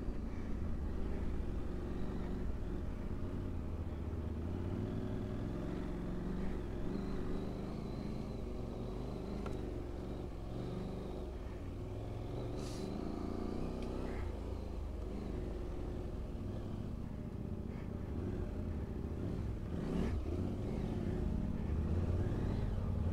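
KTM 790 Adventure's parallel-twin engine running while the bike is ridden over a sandy dirt track, its pitch rising and falling with the throttle over a steady low rumble of riding noise. A couple of brief knocks come about halfway through and near the end.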